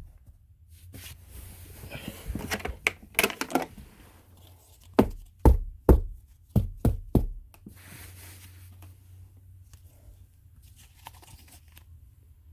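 The dusty filter of a Bissell Power Force Helix Turbo vacuum is handled with rustling and crinkling, then knocked hard about six times in quick succession to shake the dirt out of it.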